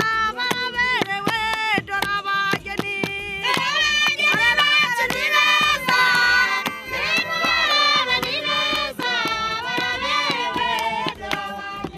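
A group of voices singing together, with women's and children's voices among them, over a steady beat of hand claps.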